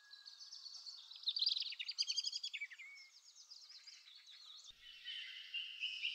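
Several songbirds singing: quick high chirps and rapid falling trills overlapping, busiest a second or two in and thinning out toward the end.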